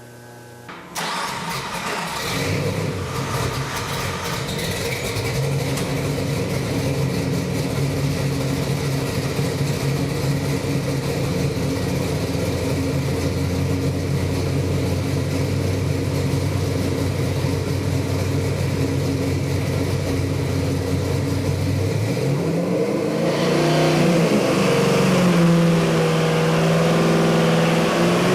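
Ford 418 cubic-inch Windsor stroker V8 crate engine with a carburettor, run on a dyno: it fires up about a second in and idles steadily for about twenty seconds. Near the end it is revved up and held at higher revs, the pitch wavering.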